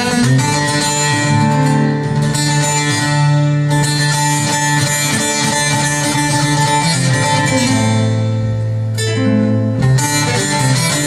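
Bağlama and guitar playing an instrumental passage of a Turkish folk tune: quick plucked notes over held low bass notes.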